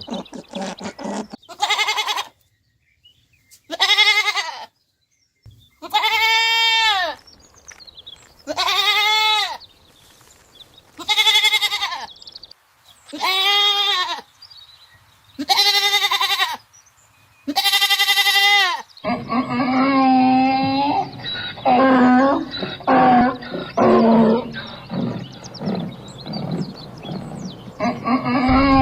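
A goat bleating, eight separate drawn-out "maa" calls about two and a half seconds apart. A little past halfway it gives way to a different recording of lower-pitched animal calls overlapping one another.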